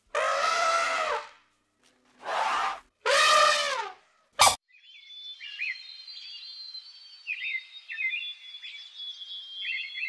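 Asian elephant trumpeting three times in quick succession, loud calls that bend down in pitch at their ends. After a sharp click, faint high-pitched chirping follows.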